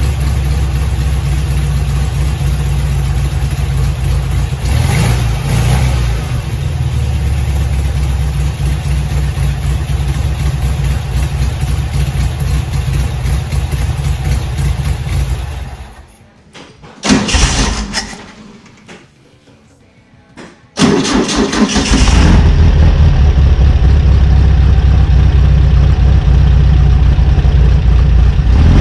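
Air-cooled flat-four engine of a 1966 VW Beetle running steadily on its newly fitted Pertronix 6-volt electronic ignition distributor, briefly louder about five seconds in. About sixteen seconds in the sound drops away, with one short burst, then from about twenty-one seconds the engine is running again, louder.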